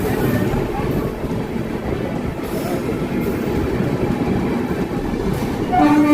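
Steady running noise of an Indian Railways express train with LHB coaches moving along the track, with a train horn starting to sound just before the end.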